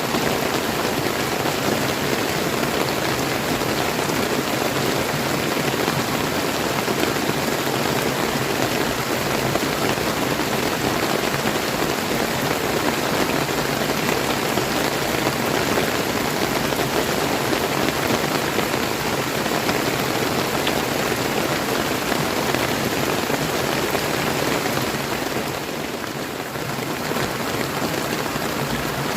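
Steady rain falling together with the rushing of a river, an even, dense hiss of water that eases slightly for a moment near the end.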